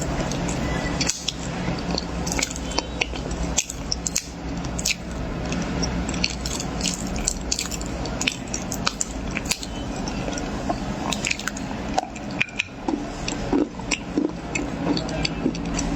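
Close-miked eating of corn: many irregular sharp crunches and moist chewing sounds over a steady low hum.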